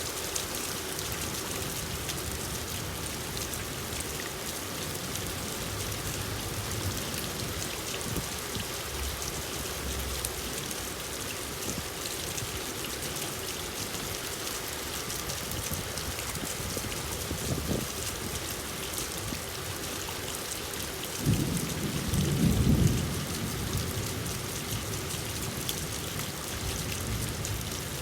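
Steady rain falling, with a brief low rumble of thunder about three quarters of the way through, the loudest sound here.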